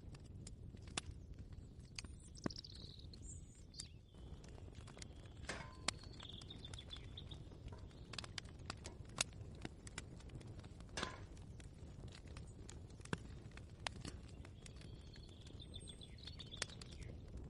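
Ambient kitchen soundscape: a steady low rumble with scattered light clicks and knocks, and a few short chirps now and then.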